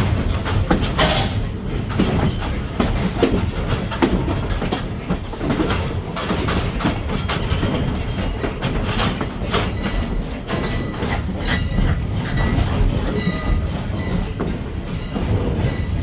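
Inside a moving passenger railroad car on jointed track: a steady rumble with irregular rail-joint clicks and knocks. There is a short hiss about a second in, and a few thin, brief wheel squeals near the end.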